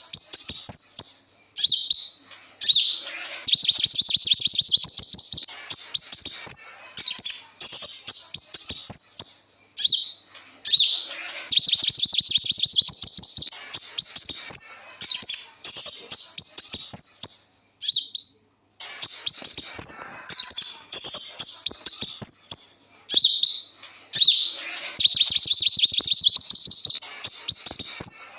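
A sunbird of the kind called kolibri ninja singing in long, high-pitched phrases of fast repeated chips and trills, with short breaks between phrases.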